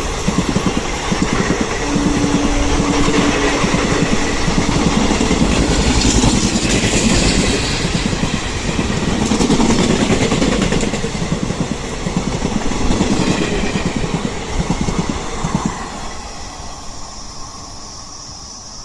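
Express train passing at speed, wheels clattering rapidly over the rail joints, then fading about sixteen seconds in as the last coaches go by.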